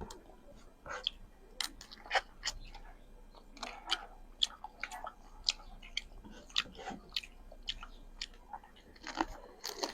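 Close-miked chewing while eating, a run of short irregular mouth clicks and smacks, about two a second.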